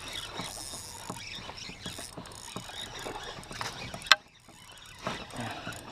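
Fishing reel being cranked to bring in a hooked fish, its gears giving a dense run of small clicks. There is a sharp knock about four seconds in and another near the end.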